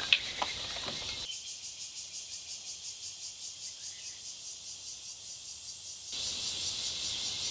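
A steady chorus of insects chirping, pulsing about three times a second. There is a brief sharp knock right at the start, and the lower background drops away for several seconds in the middle while the insects carry on.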